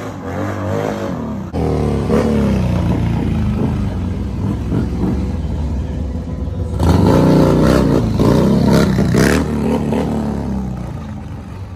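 Harley-Davidson V-twin stunt motorcycle engine revving hard, its pitch rising and falling again and again. The sound jumps abruptly louder about one and a half seconds in and again about seven seconds in.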